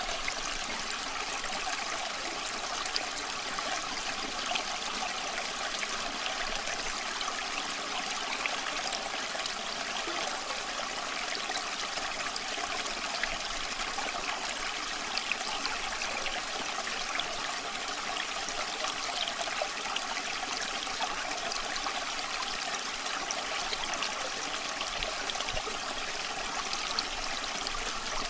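A small creek babbling steadily, with scattered short crackles from an open campfire.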